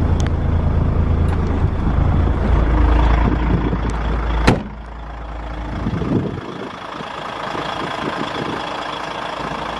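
DAF CF85.460 truck's six-cylinder PACCAR MX diesel idling. A sharp click about halfway through, after which the deep rumble is much quieter.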